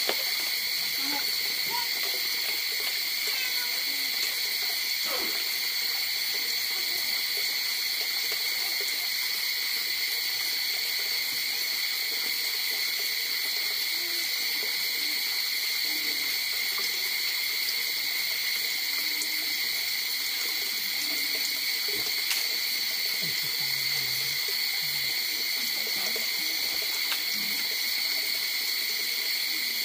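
Steady high-pitched chorus of night insects, a continuous two-toned buzz with a fine rapid pulse and faint low sounds now and then.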